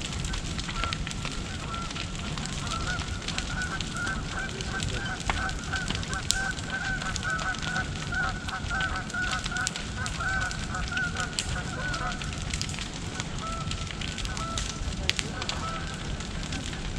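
Huge bonfire burning with a steady low rumble and frequent sharp crackles and pops. From a few seconds in until about two-thirds through, a fast run of repeated honking bird calls sounds over it, then thins out.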